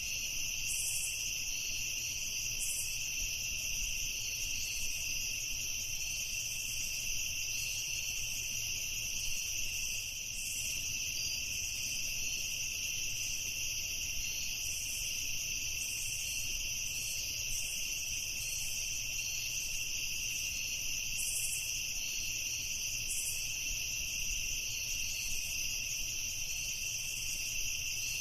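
Crickets chirping in a steady, unbroken chorus: a continuous high trill, with a faint low rumble underneath.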